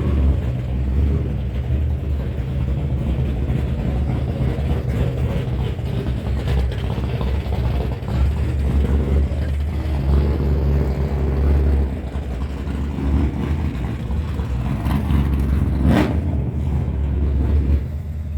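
A car engine running at a steady pace with a deep low rumble, and one sharp click near the end.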